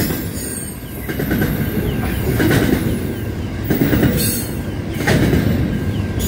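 Double-stacked container freight train passing close at speed: a steady rumble of wagon wheels on the rails, with a loud clatter coming again about every second and a half and faint high wheel squeals.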